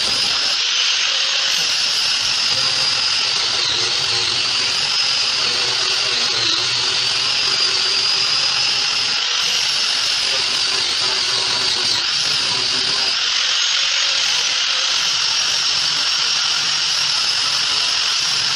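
Handheld electric power tool running continuously against a fibreglass boat hull, a steady high motor whine that wavers slightly in pitch as the load changes.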